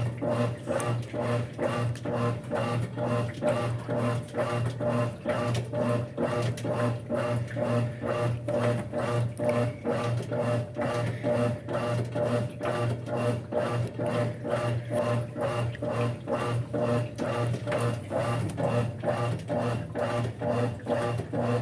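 Brastemp 5 kg top-loading washing machine in its wash agitation, turning the clothes in one direction only. Its motor hums steadily under a regular churning rhythm of about two to three strokes a second.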